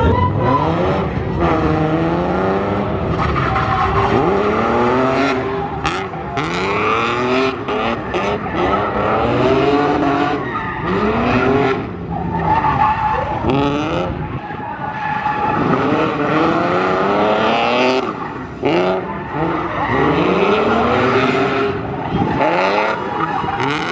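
Drift cars' engines revving hard, the pitch climbing and dropping again every second or two as the throttle is worked, over continuous tyre squeal from the cars sliding.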